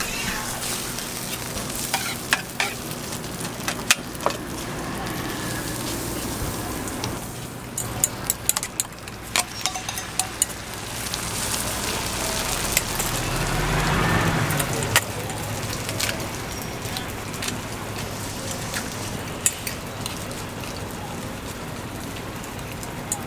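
Food sizzling on a street-toast griddle, a steady frying hiss with scattered sharp clicks and taps, and a louder swell of sizzling about two-thirds of the way through.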